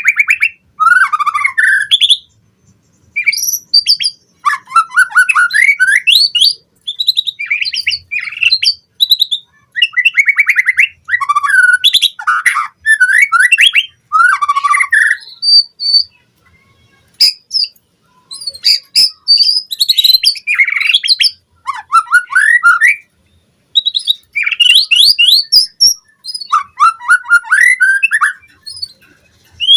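White-rumped shama singing a fast, varied song of sweeping whistles and rapid chattering note-runs, packed with mimicked phrases. It comes in loud bursts of a second or two with short pauses between.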